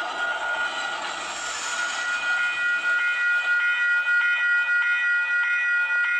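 Train noise fading out under a steady high tone, then a railway warning bell starts ringing about two seconds in, in a regular beat of roughly two strokes a second.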